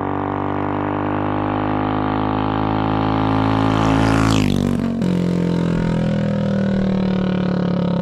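Coleman CC100X minibike's small single-cylinder engine running hard at high revs on a top-speed run with a 12-tooth clutch. About four and a half seconds in, the engine pitch drops sharply, then holds steady at a lower speed.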